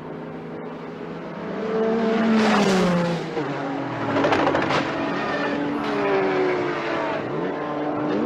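Race car engines at full speed, several cars passing in turn with engine pitch dropping as each goes by, loudest about two and a half and four and a half seconds in.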